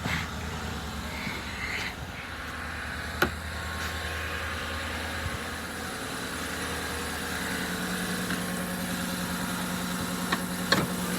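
The GMC Sierra's 5.3-litre L83 V8 idling steadily shortly after a cold start, with a few sharp clicks about three seconds in and near the end.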